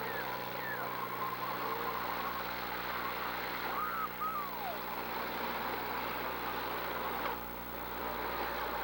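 Demolition derby cars' engines running under a steady din, with a few short rising-and-falling calls from the crowd. The sound changes abruptly about seven seconds in.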